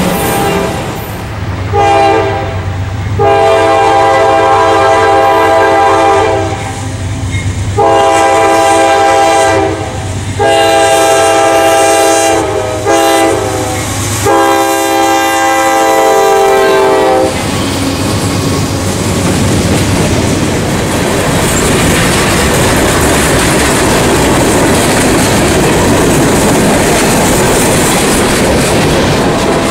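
CSX freight locomotive's multi-tone air horn sounding six blasts in a short-long-long-long-short-long pattern, the last ending about 17 seconds in. Then the freight cars roll past with a steady rumble and wheel clatter on the rails.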